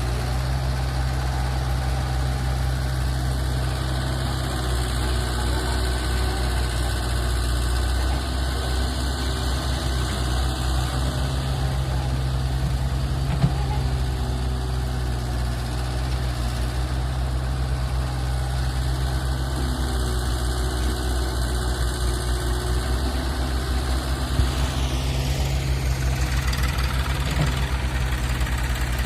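Sonalika DI 750 tractor's diesel engine running steadily, a continuous low hum, with two brief knocks about halfway through and near the end.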